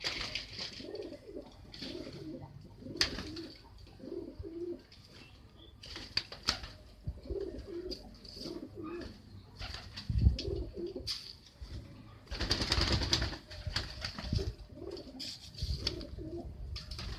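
Domestic pigeons cooing over and over, broken by several bursts of wing flapping, the longest about two-thirds of the way through.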